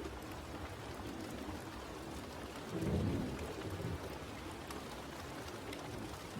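Steady rain falling, with scattered fine drop ticks and a brief low rumble swelling up about three seconds in.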